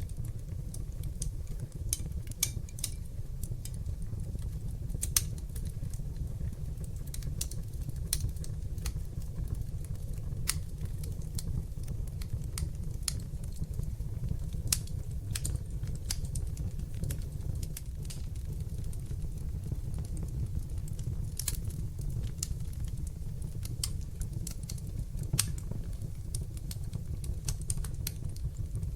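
Wood fire crackling in a fireplace: irregular sharp pops and crackles over a steady low rumble of the burning flames.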